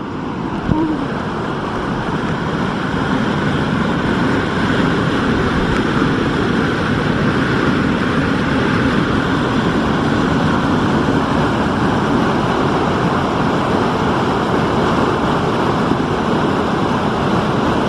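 Fast-flowing water rushing steadily, growing a little louder over the first couple of seconds.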